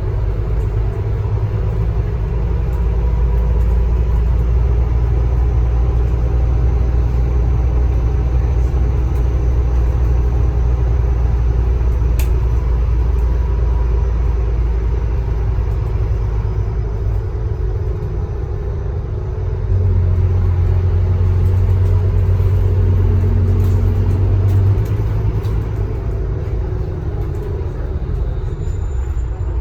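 Scania K310UB city bus engine and driveline running steadily with a deep drone. About two-thirds of the way through the drone grows louder for some five seconds, then eases off.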